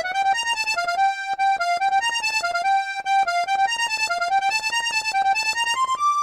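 Sampled accordion playing an instrumental interlude: a melody over quickly repeated staccato notes, ending on a single held high note.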